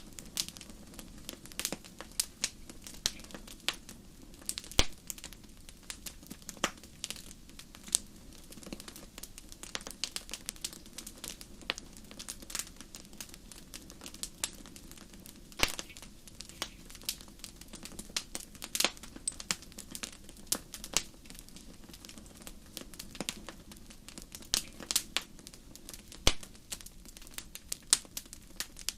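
Wood fire crackling in a fireplace: a steady stream of irregular sharp pops and snaps over a low, even hiss of the flames.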